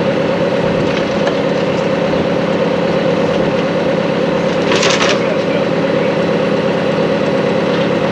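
Engine running steadily, powering a grain auger unloading corn from a bin. A short hiss about five seconds in.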